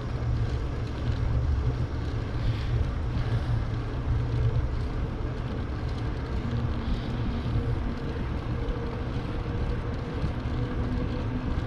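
Wind rumbling on the microphone of a camera moving along on a bicycle, a steady low buffeting, with a faint steady hum coming in about halfway through.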